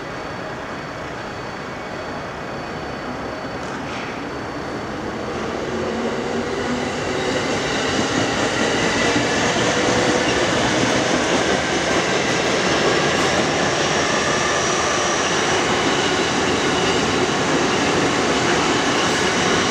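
Electric trains running past on the station's tracks, a steady rail rumble that grows louder from about five seconds in and stays loud, with a faint whine of motors over it.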